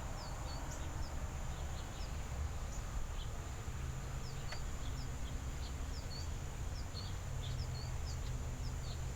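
Backyard birds calling with short, sharp, high chirps, about two a second, over a steady low rumble of outdoor background noise.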